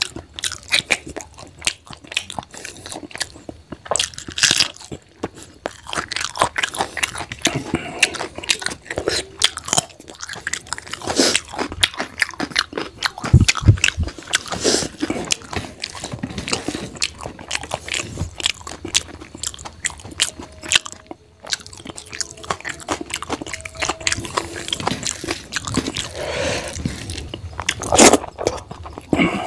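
A person chewing mouthfuls of rice, egg and potato curry close to the microphone, with many irregular mouth clicks. A single low thump comes about halfway through.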